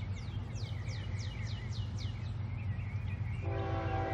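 A songbird singing a run of quick down-slurred whistles, about two a second, over a steady low outdoor rumble. Near the end a steady chord of several held tones comes in.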